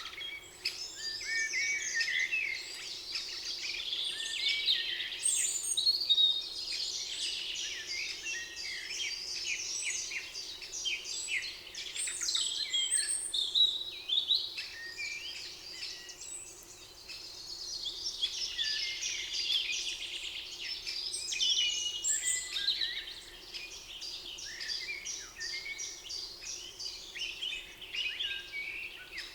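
Several songbirds singing at once in a dense, continuous chorus of chirps and rapid trills, over a faint steady background hum.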